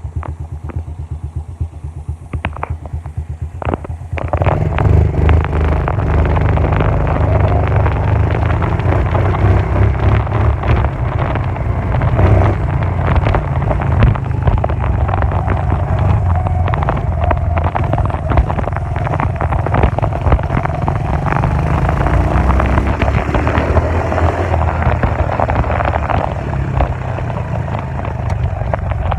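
Dirt bike engine running with a steady pulse for about four seconds, then suddenly louder under throttle and running steadily at that level.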